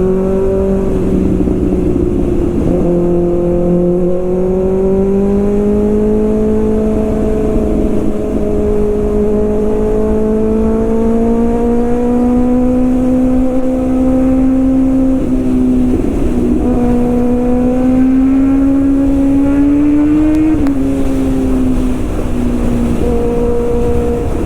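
Kawasaki ZX-6R inline-four engine and exhaust pulling steadily on the move, its pitch rising slowly for most of the stretch. It breaks briefly about two-thirds of the way through and drops a little in pitch near the end, as with a gear change.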